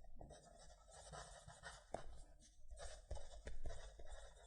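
Pencil writing on paper: irregular scratchy strokes of graphite on paper, with small taps as the pencil lands and lifts.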